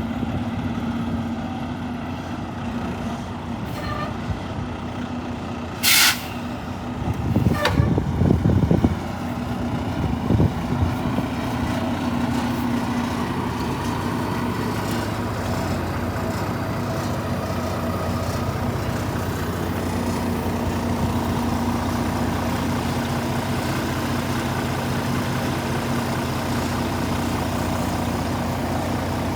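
The D13 diesel engine of a Volvo VNL 860 truck tractor idling with a steady hum. About six seconds in there is a brief sharp hiss of released air, followed by a few seconds of louder, rougher engine sound before it settles back to a steady idle.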